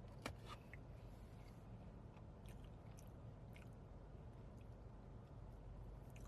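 A person chewing a soft cookie close to the microphone: faint mouth clicks and a sharper click about a quarter second in, over a low steady hum.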